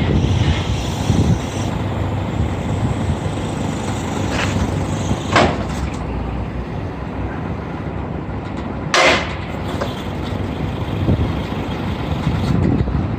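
Scania R 480 truck's diesel engine running, a steady low rumble, with two short hisses about five and nine seconds in.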